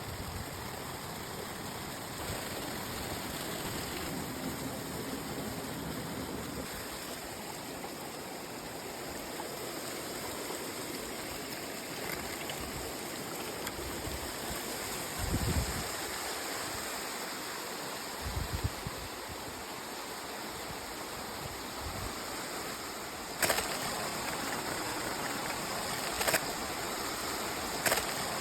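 Steady rush of running water, even and unbroken, with a few low thuds about halfway through and several sharp clicks near the end.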